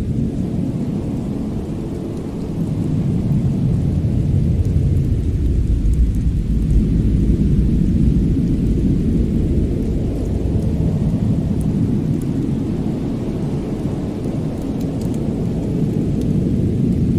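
Winter-ambience mix of a low, continuous rumbling roar that slowly swells and eases, with a few faint crackles near the end, like a fire burning in a fireplace.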